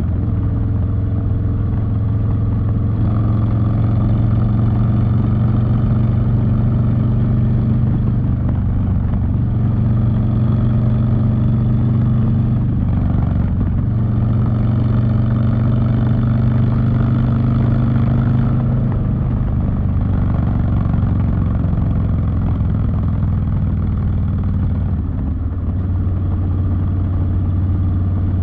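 Harley-Davidson Street Bob's V-twin engine running through a TBR 2-into-1 exhaust while riding, a loud, steady exhaust note whose pitch drops and picks up again a few times.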